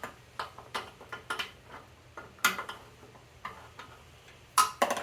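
A wrench tightening a nut on a scooter's fuel tank fitting: a string of irregular sharp clicks, with two louder ones about halfway through and near the end.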